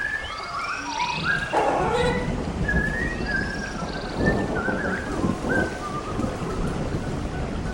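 Parrots chattering in short chirps and whistles over the steady rush of water spraying on them, the spray growing louder about a second in.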